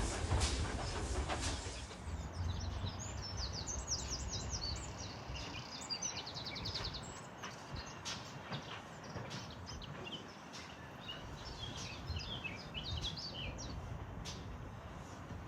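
Small birds singing and chirping, with a fast trill about seven seconds in. A louder low noise fades out in the first two seconds.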